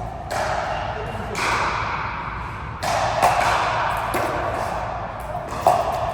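Sharp knocks and thuds, loudest about three seconds in and just before the end, over a background murmur of voices in a large room.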